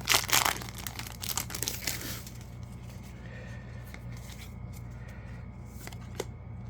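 Foil Yu-Gi-Oh booster pack being torn open, its wrapper crinkling for about two seconds. Then quieter handling of the cards with a few faint clicks.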